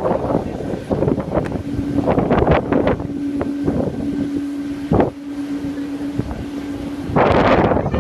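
Wind buffeting the microphone in irregular gusts, with a strong gust setting in about seven seconds in. A steady hum runs underneath for most of the time.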